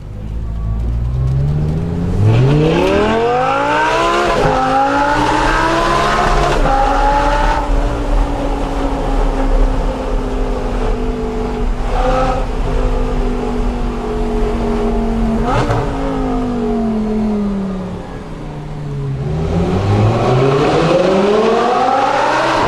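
Audi R8's V10 engine through a Per4mance aftermarket exhaust, accelerating hard: the note climbs steeply with two quick breaks like upshifts, then holds fairly steady. About two-thirds of the way through the note falls away, then it climbs hard again near the end.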